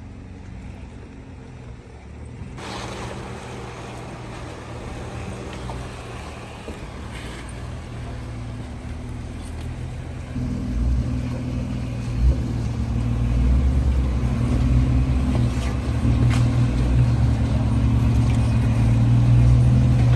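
Jeep Wrangler's engine running as it drives the off-road trail, with a rushing noise coming in a couple of seconds in. The engine grows louder from about halfway through, as if pulling harder.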